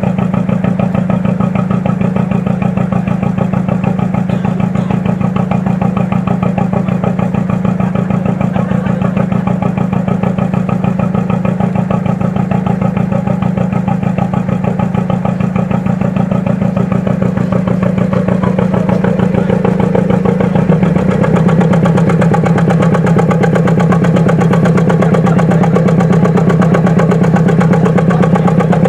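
An engine running steadily at idle with an even pulse. About two-thirds of the way through, its note changes and it gets slightly louder.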